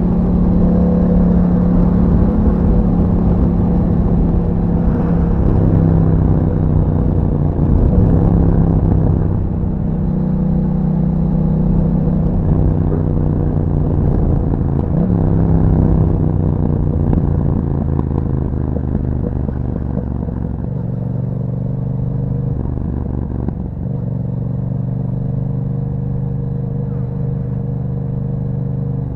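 The 2021 Yamaha MT-07's parallel-twin engine running through an Akrapovic exhaust while riding, its pitch drifting up and down with the throttle. It is louder through the first half and settles lower and quieter in the second half.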